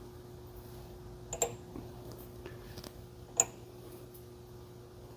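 A few light, sharp metallic clicks, the two loudest about two seconds apart: small steel check balls being dropped one by one into a Briggs & Stratton starter clutch hub.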